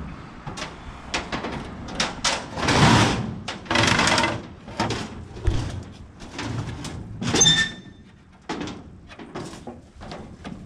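Irregular knocks, scrapes and shuffling as parts are handled in a workshop, with one short ringing metal clang about seven seconds in.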